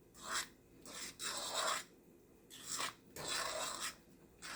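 A spoon scraping through rice in a cooking pot as it is stirred, in repeated strokes about one a second.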